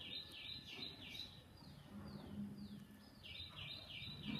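A small bird calling repeatedly: a quick series of short downward-sliding chirps, about three a second, faint, dropping away in the middle and picking up again near the end.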